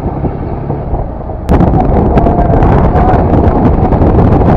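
Wind buffeting the microphone over the rushing noise of a Yamaha FZS V3 motorcycle on the move. About one and a half seconds in, the noise suddenly becomes much louder and harsher.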